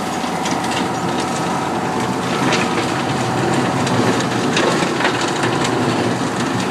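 Tractor engine running while it clears brush and debris, with frequent sharp cracks and snaps of breaking wood over the steady engine sound.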